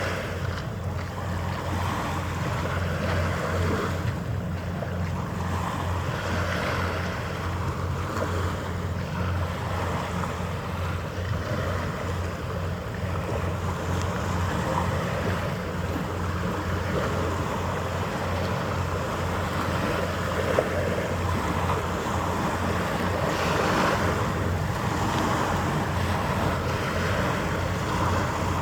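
Harbour waterside ambience: a steady low drone under a rushing hiss that swells and fades every few seconds, with wind on the microphone.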